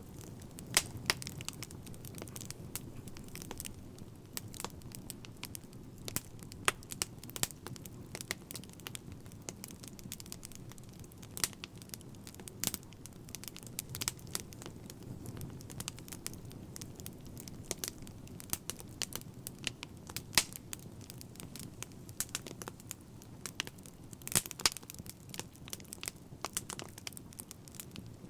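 Wood fire crackling: irregular sharp pops and snaps, some much louder than others, over a steady low background of burning.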